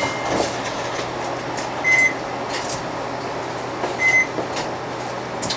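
Interior running noise of a UD Space Runner RA diesel city bus as it drives, with two short high electronic beeps about two seconds apart.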